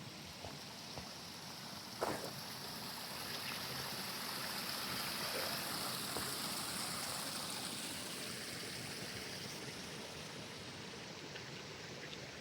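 Small stream running and trickling, growing louder toward the middle and easing off near the end, with a single sharp tap about two seconds in.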